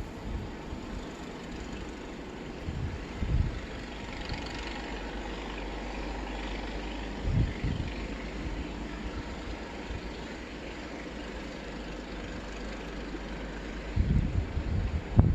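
Storm wind buffeting the microphone in short gusts over a steady low rumble, with heavier buffeting near the end.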